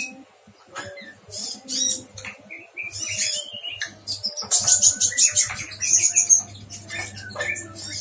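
Small caged prenjak bird repeatedly giving quick high chirps, with a few lower falling notes in the middle, while a food cup is fitted into its wire cage with scattered light clicks and rattles.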